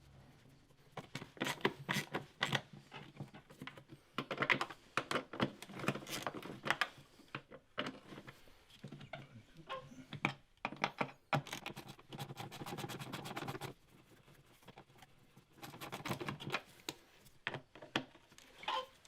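Socket ratchet clicking in quick runs while undoing the 8mm bolts of an air filter housing, with scattered knocks and clinks of the tool against metal.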